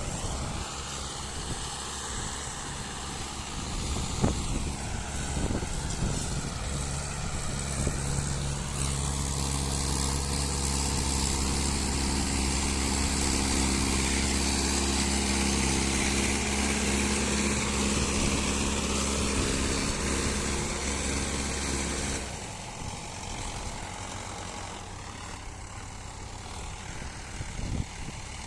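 Mahindra tractor's diesel engine running steadily under load while pulling a heavily loaded sugar cane trailer. It grows louder and smoother about a third of the way in, then drops suddenly to a quieter rumble about 22 seconds in.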